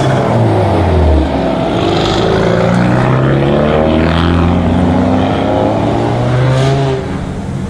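Loud performance car engines revving and accelerating, several at once with pitches rising and falling, the deepest dropping away about a second in and the whole getting quieter near the end.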